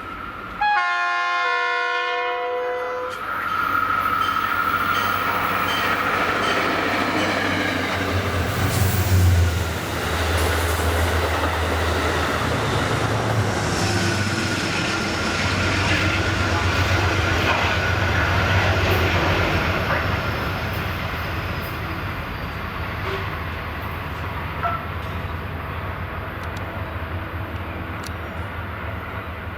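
A passenger train's horn blast, followed by the train running past, loudest about nine seconds in and fading over the last ten seconds.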